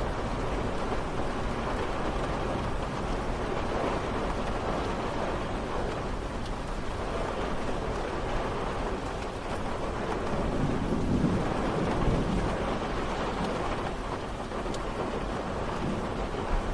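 Steady rain falling, a continuous dense hiss, with a low swell in the sound about ten seconds in that fades again a couple of seconds later.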